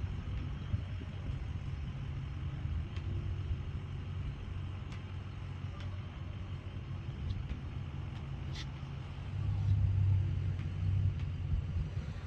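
Low rumble of motor vehicle engines running, swelling louder for a second or two about nine and a half seconds in.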